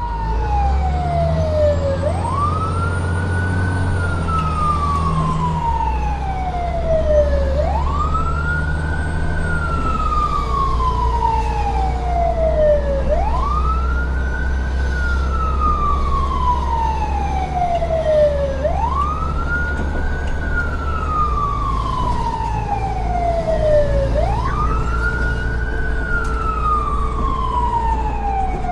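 Siren wailing in a slow repeating cycle: each time the pitch climbs quickly, then slides down over about four seconds, about five times through. A steady low rumble runs underneath.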